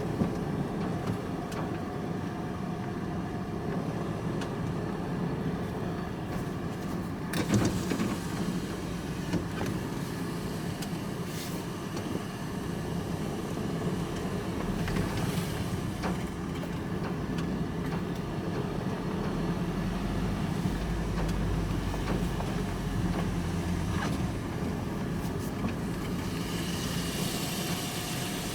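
Engine and road noise heard from inside a vehicle cabin while driving, steady throughout, with a single sharp knock about seven seconds in and a deeper rumble building for a while in the middle.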